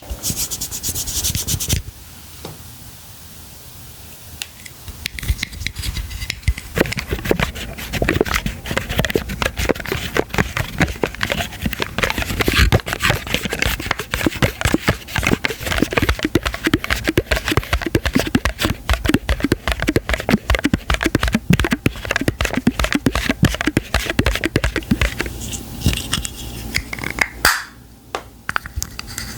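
Close-miked unboxing sounds: packaging and products being handled and opened, with dense scratching, crinkling and tapping. A hissy burst in the first couple of seconds gives way to a quieter stretch, then about five seconds in the crackly scratching grows dense and carries on, with a brief lull near the end.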